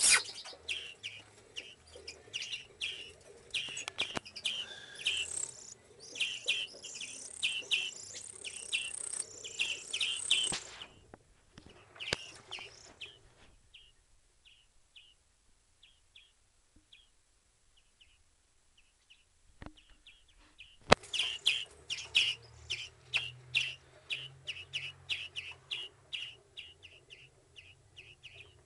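Hand-raised pet birds chirping, short high chirps in quick succession, several a second. The chirping thins to a few faint calls about halfway through, then picks up again. A few sharp clicks or knocks come in between, the loudest near the start and about two-thirds of the way in.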